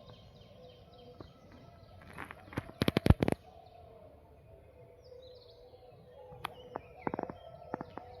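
Faint birdsong in forest: thin calls and short falling notes. A quick cluster of sharp clicks about three seconds in is the loudest sound, with a few more clicks near the end.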